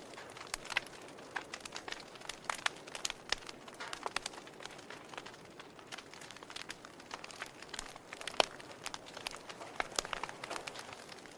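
Wood fire in a fireplace crackling, with irregular sharp pops and snaps over a soft steady hiss; the loudest pop comes a little past the middle.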